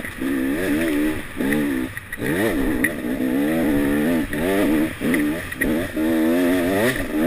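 Enduro motorcycle engine at race pace, revving up and dropping back again and again as the throttle is opened and shut, with short breaks in the sound between pulls.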